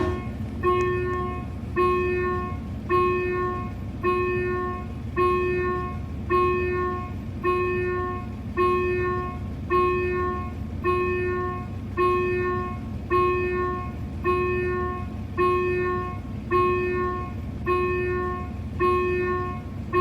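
Railway level-crossing warning bell ringing, one struck tone repeating evenly about once a second.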